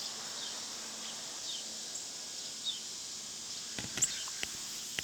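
Steady high insect drone of a summer field, with a few short, falling bird chirps over it and several light clicks or knocks about four seconds in.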